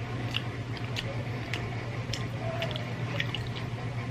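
Close-up eating sounds: chewing and pulling apart roast chicken by hand, with scattered wet mouth clicks and smacks. A steady low hum runs underneath.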